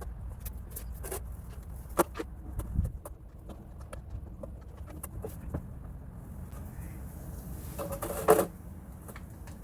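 Hardware being handled and fitted by hand: scattered small clicks and knocks of bolts and hex lock nuts going onto the snow pusher's frame, with a louder brief scrape about eight seconds in. Wind rumbles on the microphone underneath.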